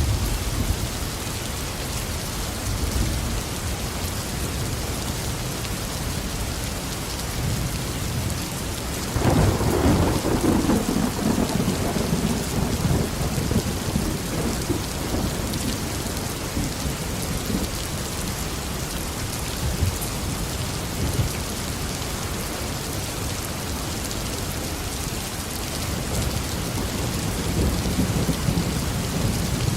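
Steady heavy tropical rain falling, with a roll of thunder that builds about nine seconds in and rumbles away over several seconds, and another low rumble near the end.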